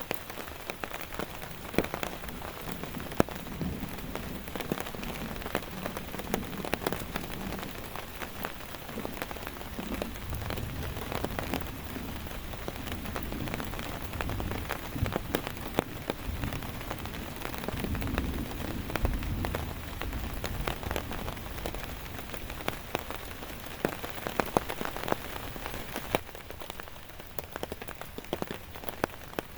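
Heavy rain falling steadily on a surface, with many individual drops ticking close by. A low rumble sits underneath through the middle.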